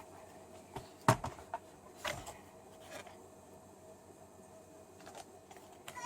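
A few short knocks and taps from a cardboard board book being handled and its pages turned, the loudest about a second in, over a faint steady hum.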